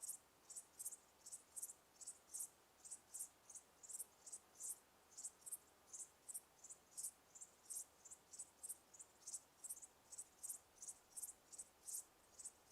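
Crickets chirping: faint, short high chirps, about three a second, uneven in spacing and strength.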